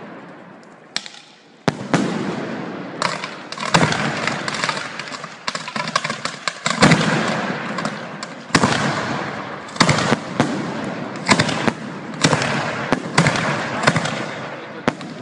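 Fireworks going off at close range from the launch site. After a short lull at the start, sharp bangs come about once a second, each trailing off into a fading rumble.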